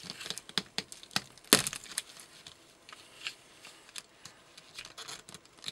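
Irregular clicks and cracks from a tool being worked on PVC pipe unions, tightening them, with the loudest crack about a second and a half in.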